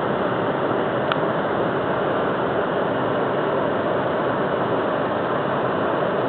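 Steady road and engine noise of a car driving on a snowy road, heard from inside the car, with one faint click about a second in.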